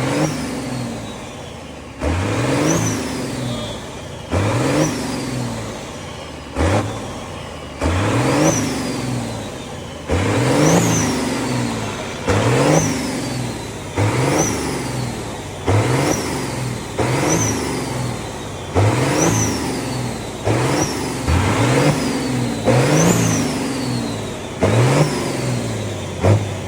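Peterbilt semi truck's diesel engine revved hard over and over, about once every two seconds, each rev snapping up in pitch and then falling back toward idle.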